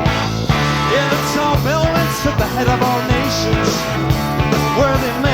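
Live rock band playing an instrumental passage: electric guitar bending notes over steady bass and drums.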